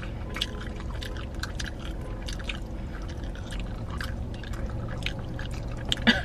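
Close-mic mouth sounds of eating McDonald's french fries: irregular wet clicks and smacks of chewing, over a steady low hum inside a car.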